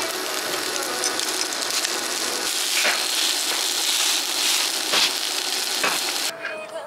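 Fried rice sizzling on a hot round griddle pan while a metal spatula stirs and presses it, with a few sharp scrapes and clacks of the spatula on the pan. The sizzle grows louder about halfway through and stops suddenly near the end.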